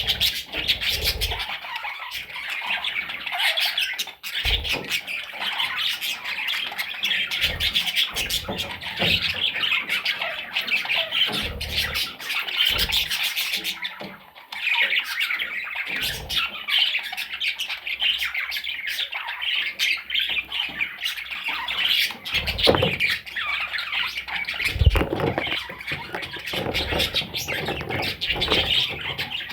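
Budgerigars chattering and squawking continuously, many overlapping calls with a brief lull about halfway through. A few short low thumps are heard among the calls.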